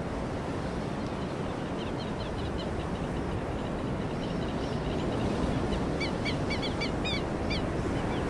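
Small songbird giving short, high chirps over a steady outdoor background hiss. The chirps are faint and scattered at first and come in clearer quick runs about six seconds in.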